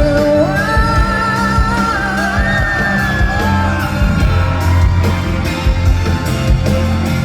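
Live pop-rock band playing a passage of a power ballad between sung lines, with a steady drum beat and bass, and a long high held note, with a wavering top, over the first few seconds.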